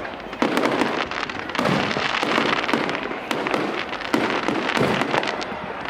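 Aerial fireworks bursting in quick succession, a loud bang roughly every second with sharp crackling between the bangs.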